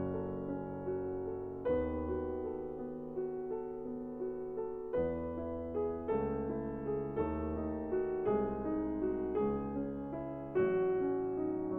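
Background piano music, slow and gentle, with a new chord struck about once a second.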